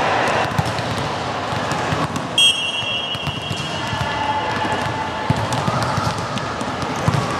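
Volleyball being played: scattered thuds of the ball and shoes on the court over a murmur of voices, with a short, high referee's whistle blast about two and a half seconds in.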